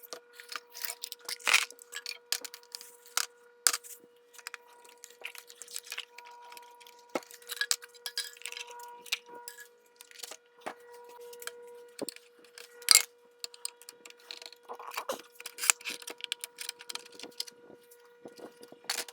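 Irregular metallic clicks, clinks and taps of tools and small parts being handled on a Singer Expressão 10 domestic sewing machine during disassembly for cleaning, over a faint steady hum.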